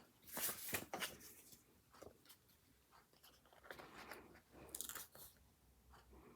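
Crisp crackling and rustling of paper being handled, in two short bursts: one about half a second in and another around four to five seconds in, with a few fainter ticks between.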